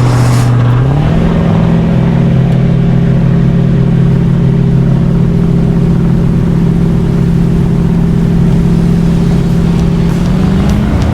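Jet boat's 250-horsepower V8 engine under way: its pitch steps up about a second in, holds at a steady speed, and rises again near the end as the throttle opens.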